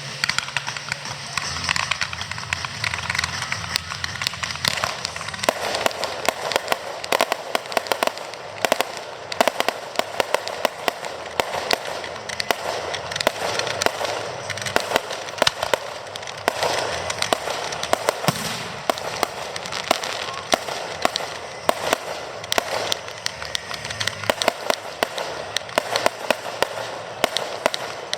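Fireworks display: a dense run of rapid pops and cracks, with louder reports scattered throughout.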